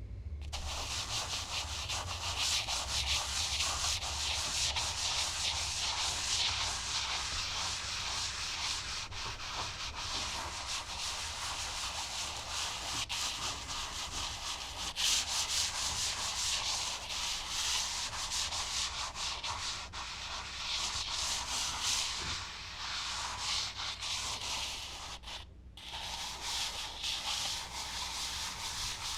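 Charcoal being rubbed and brushed across smooth Bristol paper: a continuous dry, scratchy rubbing made of many quick strokes, with a brief pause a few seconds before the end.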